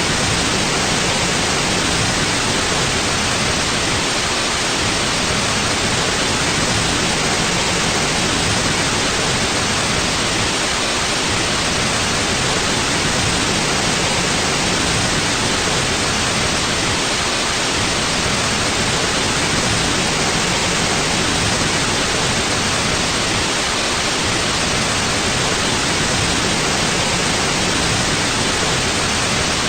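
Steady white noise: an even, unchanging hiss across the whole range, with the highs strongest.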